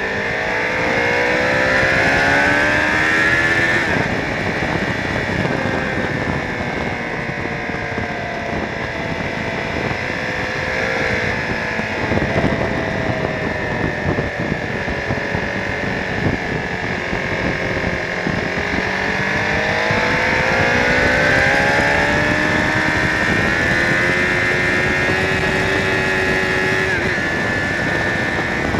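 Honda CBR1000RR Fireblade's inline-four engine ridden hard on track, revs climbing in the opening seconds and dropping sharply about four seconds in. The revs wander through the corners, then climb again in the second half and hold high at full speed.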